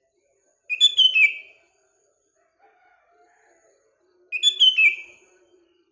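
Sooty-headed bulbul (kutilang) singing: two short, loud phrases of quick falling whistled notes about three and a half seconds apart, with faint low chatter of other birds beneath.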